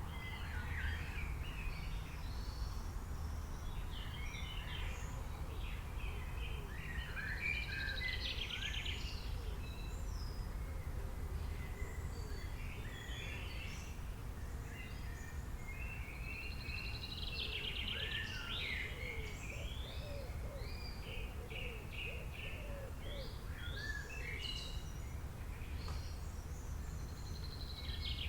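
Several birds chirping and calling over a steady low rumble, with a buzzy trill that comes back about every nine seconds.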